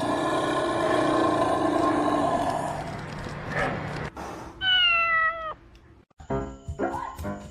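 Cat meowing: a long drawn-out meow, then a shorter, slightly falling meow about five seconds in. Music with a beat comes in near the end.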